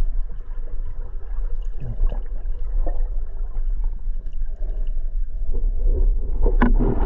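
Water sloshing and gurgling over a steady low rumble, with a few louder sharp splashes or knocks near the end.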